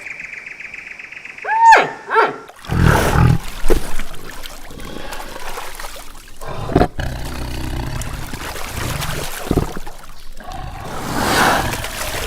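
A large animal roaring and growling in long noisy rasps, after a few short rising-and-falling calls about two seconds in.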